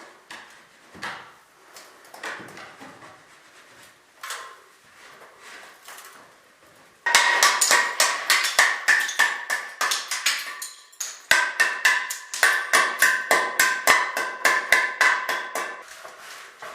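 Hammer blows, at first a few light knocks and scrapes, then two fast runs of strikes, several a second, each with a ringing metallic tone, separated by a short break about eleven seconds in.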